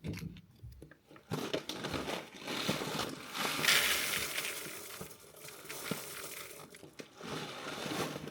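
Dry bird food being tipped out of its bag and stirred: a dense crinkling, rattling rustle of seed and packaging, loudest about four seconds in.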